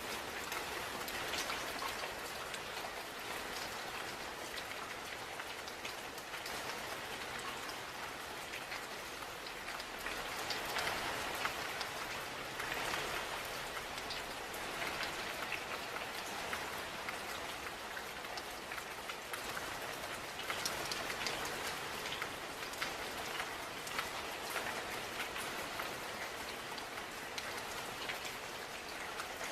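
Steady rain falling, with many small drops pattering on a surface and the intensity swelling and easing slightly now and then.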